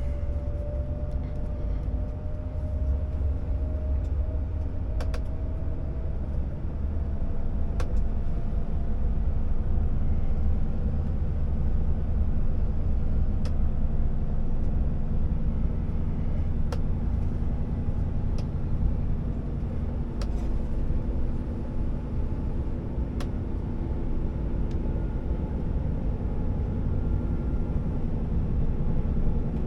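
Scania R650 timber truck's V8 diesel engine running as the truck drives, a steady low drone. A faint tone in it climbs slowly over the first few seconds and then holds, and a few faint clicks come through.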